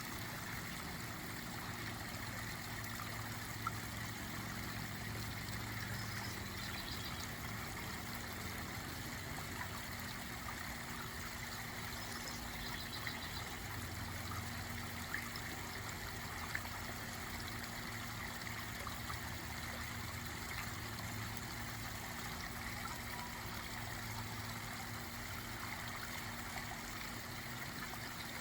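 Backyard pond waterfall running: a steady, continuous trickle and splash of falling water.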